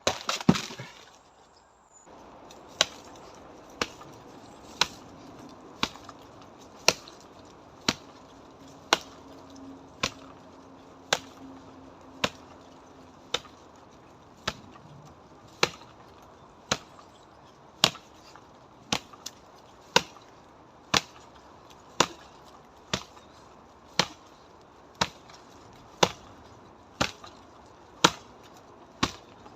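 Karate strikes landing on a dry, dead tree trunk: sharp wooden knocks at a steady pace of about one a second, after a short louder clatter at the start.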